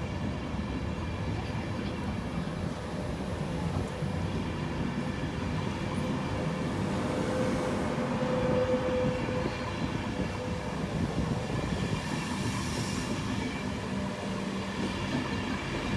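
Class 91-hauled InterCity 225 train pulling out of the station, its coaches running past on the rails with a steady sound, and a hum that swells about halfway through.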